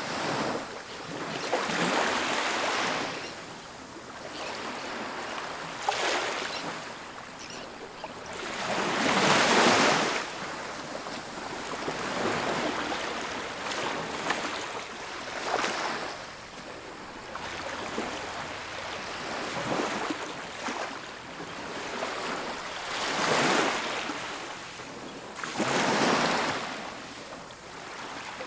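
Ocean waves breaking on a beach, surf rising into a hissing wash every few seconds and falling back between breaks, with the loudest breaks about nine seconds in and near the end.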